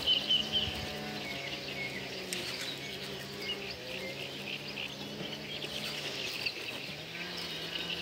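Small birds chirping and singing, with a steady low hum running beneath.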